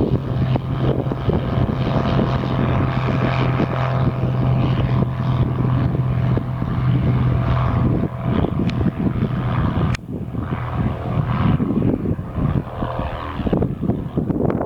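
Light propeller airplane's engine and propeller running with a steady drone, heavily buffeted by wind on the microphone; the drone drops away about ten seconds in.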